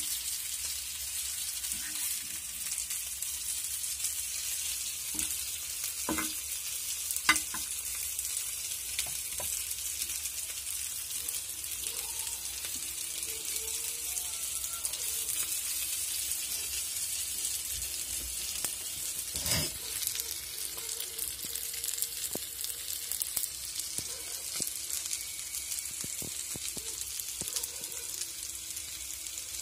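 Chicken drumsticks sizzling on a thick dosa tawa, a steady high hiss, with a few sharp taps of the spatula against the pan.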